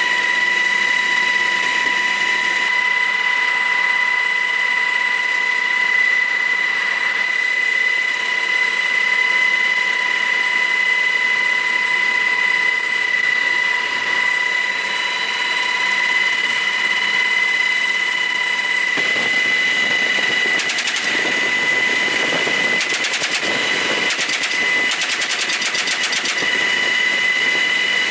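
Helicopter cabin noise with a steady high whine in several pitches. About two-thirds of the way in come several rapid bursts of fire from a .50-calibre door machine gun.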